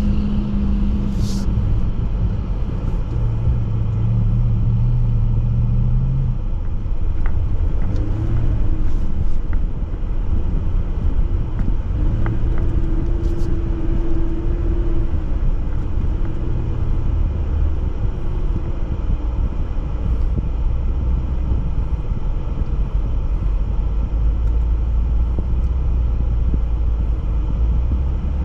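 Jeep driving off-road: a steady low engine rumble whose note shifts up and down every few seconds, with a few faint clicks.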